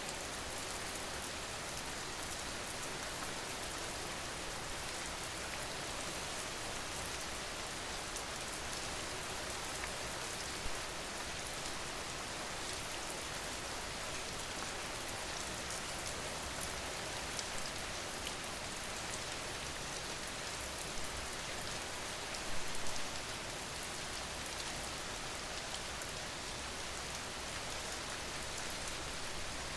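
Steady rain ambiance: an even hiss of rain falling, with a few brief louder taps, the strongest about three-quarters of the way through.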